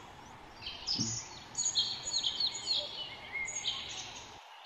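Birds chirping, a string of short high notes repeating over a faint outdoor background.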